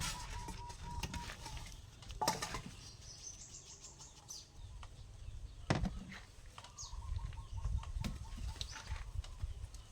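A bird flapping its wings, amid scattered sharp knocks and brief high chirps outdoors.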